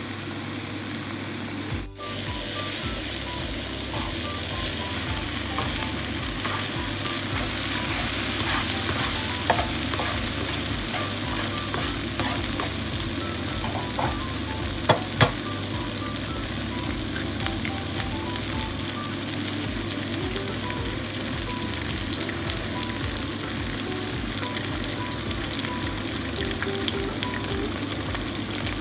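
Vegetables and an egg frying in hot oil in a pan: a steady crackling sizzle, with a few sharp clicks around the middle.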